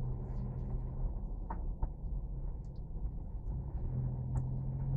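Steady low rumble of a moving car, engine and road noise, with an engine hum that fades for a couple of seconds and comes back, and a few faint clicks.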